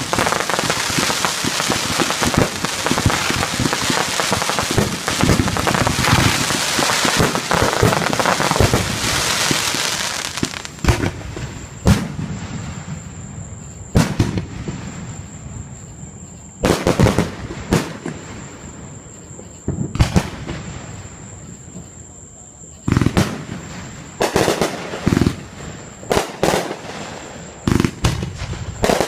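Fireworks going off: about ten seconds of dense, continuous crackling and popping, then separate sharp bangs every second or two, some in quick clusters near the end.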